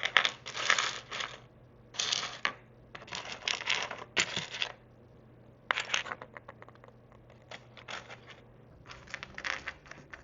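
Tiny plastic miniature food pieces and dishes being handled and rummaged through in a box: irregular bursts of rustling and light clattering with small clicks, separated by short pauses.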